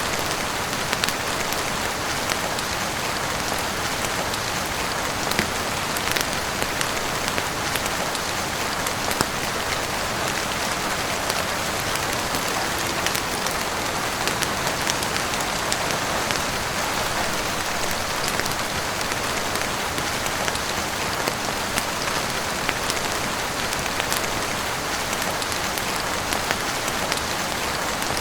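Heavy rain falling steadily on a roof and windows, an even hiss dotted all through with many small, sharp ticks.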